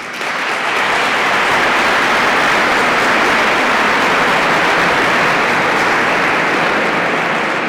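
Audience applauding, a steady dense clapping that tails off near the end.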